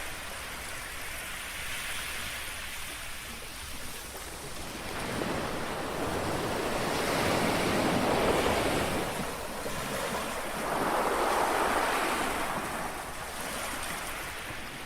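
Calm sea waves lapping and washing onto a shore, the wash swelling twice, once around the middle and again a little later, then falling back.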